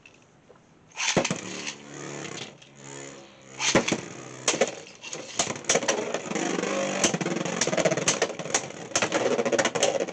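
Beyblade X spinning tops launched into a stadium about a second in, with a whirring rip, then spinning and colliding with many sharp clacks over a steady whir.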